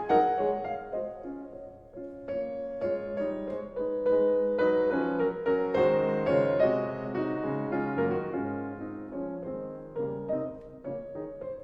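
Gentle solo piano music, notes struck and left to ring in a slow, soft melody with chords.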